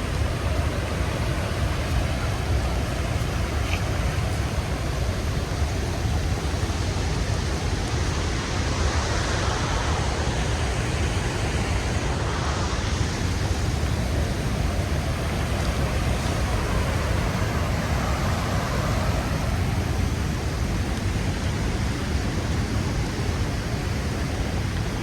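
Large waterfall rushing steadily, with wind on the microphone.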